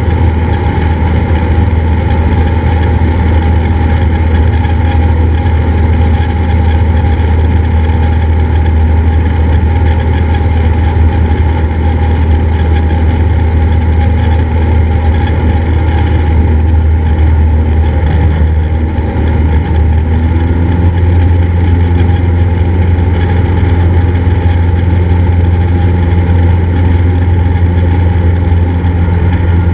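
Cessna 172's piston engine and propeller droning steadily, heard from inside the cockpit. Just before two-thirds of the way through the drone dips briefly and then settles at a slightly different pitch.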